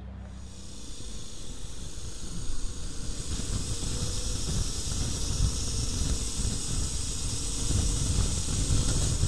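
Wind rush and road hiss on a moving motorcycle, building over the first few seconds as it picks up speed, with gusty buffeting low down and the engine faint beneath.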